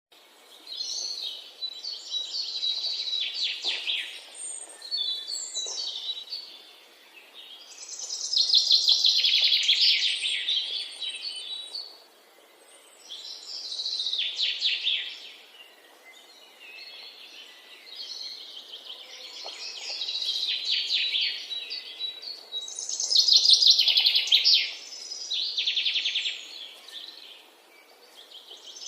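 Birds singing, with rapid trilled phrases a second or two long that come every few seconds.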